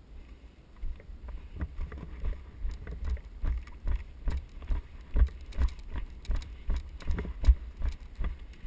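Footsteps of the camera-wearing player moving quickly, about three steps a second, each step a heavy low thump on the body-worn microphone with gear jostling.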